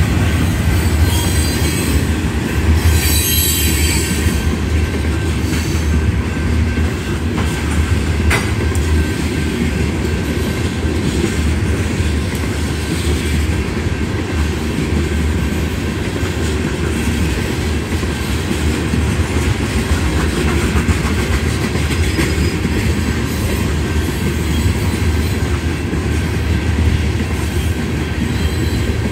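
Union Pacific freight train cars, covered hoppers and tank cars, rolling past a grade crossing: a steady heavy rumble of steel wheels on rail with clatter, and a brief high wheel squeal about three seconds in.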